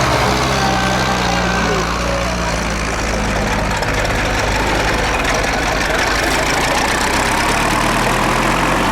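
Tractor engine running steadily, with a level, unchanging pitch.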